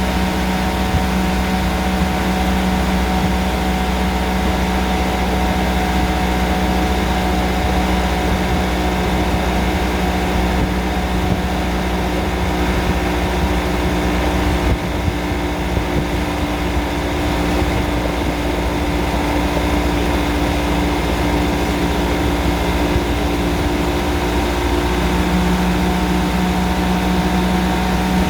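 Freshly rebuilt 1994 Evinrude 70 hp three-cylinder two-stroke outboard running steadily on its first run after the rebuild. Its note wavers briefly near the end, then settles again.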